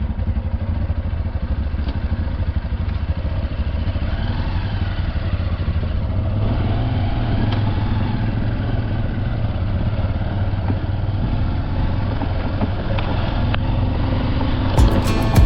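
Motorcycle engine running steadily, cut off near the end.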